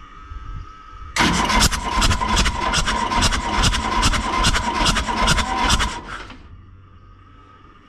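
Diesel excavator engine being cranked by its starter motor for about five seconds, with a steady starter whine and about four even compression pulses a second, then stopping without catching. The engine turns over but does not fire because it is not getting fuel.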